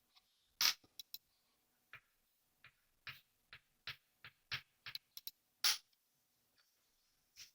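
A series of irregularly spaced sharp taps and clicks, about fifteen of them, two louder knocks standing out, one near the start and one about two-thirds through.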